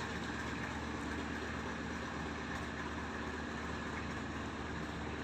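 An engine running steadily at an even speed, a constant low drone that does not change.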